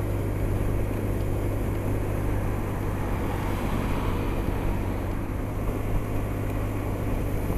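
Honda SH 300i scooter's single-cylinder engine humming steadily at cruise, under an even rush of wind and road noise.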